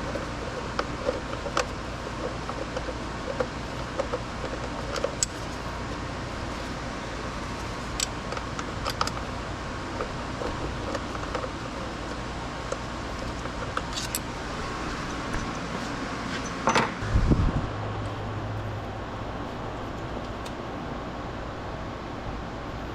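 Scattered light metallic clicks and clinks of hand tools over a steady fan-like hum, with one louder knock about 17 seconds in.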